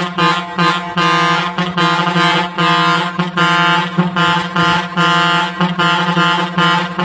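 Truck air horns blaring: a held low horn tone with upper tones pulsing on and off in quick blasts, about two a second.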